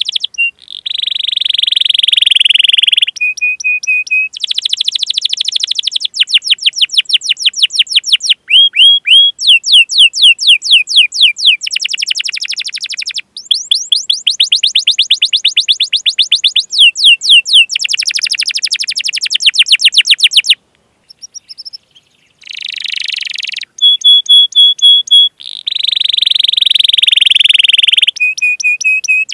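Domestic canary singing a long, high-pitched song of rolls: runs of very fast repeated notes and trills, with a short break about 21 seconds in.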